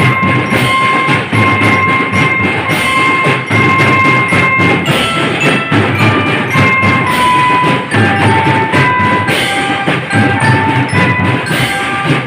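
School marching drum band playing: a steady beat of drums under a high melody of held notes that step up and down, with the tune lower in the second half.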